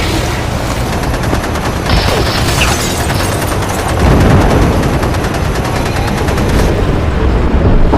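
Rapid machine-gun fire, a dense unbroken run of shots lasting several seconds, with deep booms underneath.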